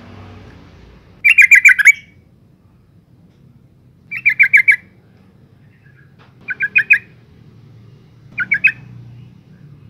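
Female yellow-vented bulbul calling for a male: four short bursts of quick repeated notes, each about half a second long, a couple of seconds apart.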